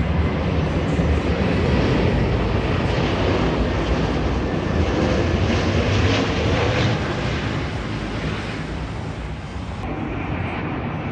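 Jet airliner's engines roaring as it passes low on final approach to land, a steady rumbling roar that eases off after about seven seconds as it moves away.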